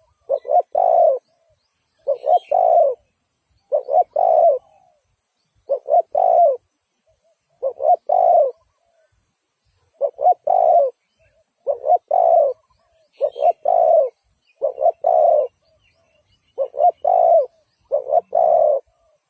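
Spotted dove cooing: a repeated phrase of two short coos followed by a longer rolling coo, given about every two seconds.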